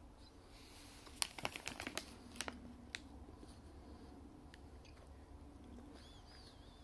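Close-up eating sounds from a mouthful of Sun-Maid Bites snack: a quick run of crackly clicks lasting about a second and a half, one more click shortly after, then quiet chewing. A short high warbling squeak comes near the end.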